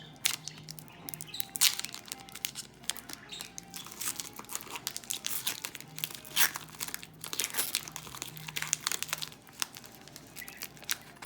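Trading-card pack wrapper crinkling and tearing as a pack is ripped open, with the cards being handled: a dense, irregular run of crackles and rustles.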